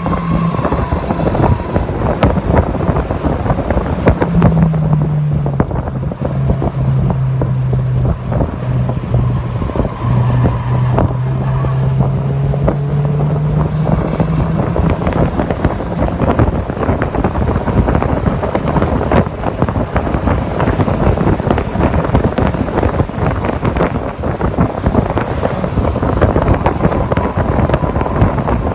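Onboard sound of a Mazda MX-5 Miata (NC) at speed on a road course: heavy wind buffeting on the microphone over the car's engine. About five seconds in, the engine note drops, then climbs slowly for about ten seconds before it sinks back into the wind noise.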